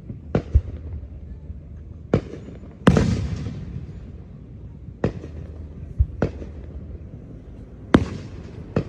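Fireworks exploding: about nine sharp bangs at irregular intervals, some with deep thuds, the loudest about three seconds in, trailing off in a long rumbling echo.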